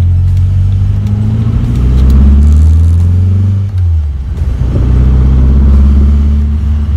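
Tuned 2007cc air-cooled VW Beetle flat-four with Weber 48 carburettors, heard from inside the cabin, pulling through the gears with a rising engine note. About halfway there is a brief dip for an upshift, then the note climbs again.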